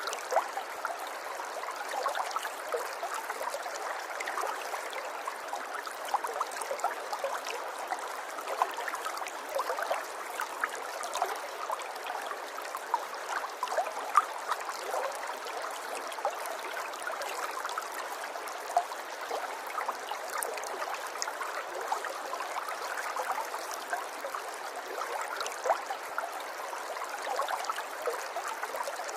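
River water flowing and babbling over rocks, a steady rush with many small splashes and gurgles.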